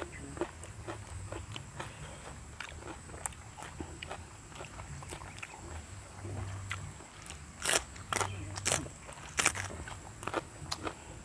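People eating by hand close to the microphone: crunchy bites and chewing of crispy fried chicken nuggets and a raw vegetable stick, many small crackles with a few sharper, louder crunches about two-thirds of the way through.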